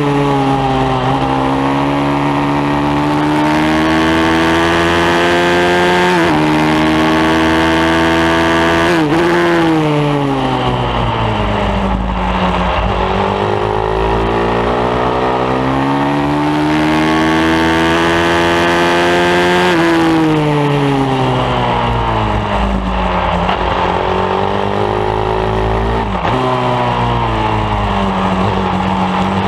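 Pit bike engine at racing pace. It revs up through the gears with a sharp drop in pitch at each shift, then winds down in long falls as it slows for corners, twice over.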